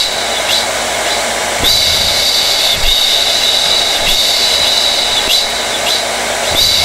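Hair dryer running steadily: a loud airy rush with a high whine on top, which swells slightly every second or two.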